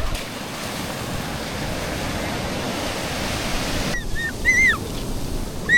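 Sea waves washing onto the beach as a steady rush of surf that cuts off suddenly about four seconds in.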